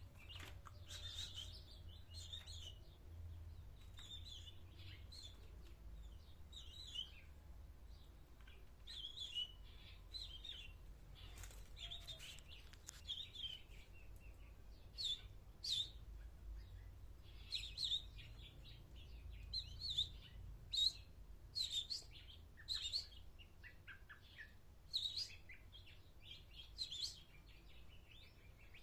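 Small birds chirping in short, sharp calls again and again, more often and louder in the second half, over a faint low hum.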